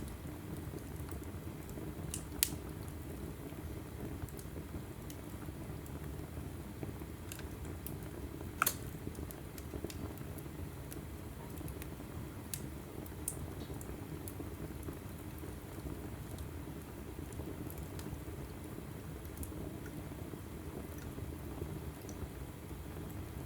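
Wood logs burning in a fireplace: a steady low rush of flame with scattered crackles and sharp pops, the two loudest about two and a half and nine seconds in.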